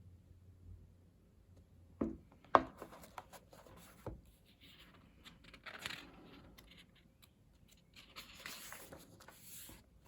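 Pages of a photobook of thick, matte photo paper being handled and turned: two sharp taps about two seconds in, the second the loudest, then paper rustling and sliding, with brighter swishes of turning pages midway and near the end.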